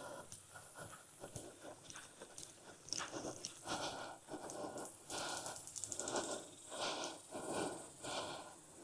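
Bee smoker bellows being pumped, giving short breathy puffs of air about once or twice a second.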